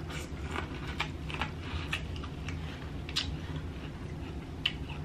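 Close-up chewing of boiled corn on the cob: irregular wet mouth clicks and smacks, a few a second, over a steady low hum.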